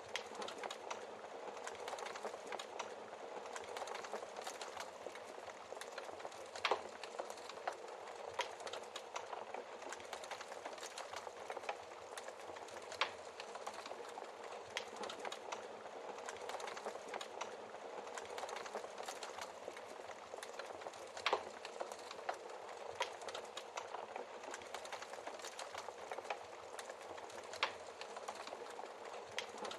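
Wood fire crackling steadily, with frequent small snaps and a few louder pops.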